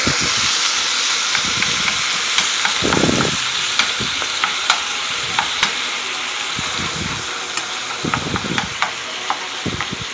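Ground beef sizzling in a cast iron skillet while it is broken up and stirred for taco meat. A steady frying hiss runs under scrapes and many short clicks of the utensil against the pan.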